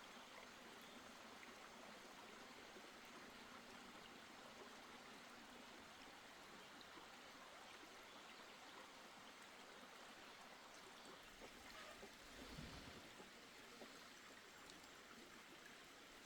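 Near silence: a faint, steady hiss of background noise, with one soft low thump about twelve seconds in.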